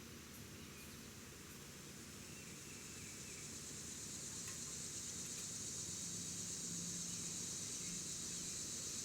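Steady, high-pitched insect chorus that grows louder about halfway through, with a few faint clicks.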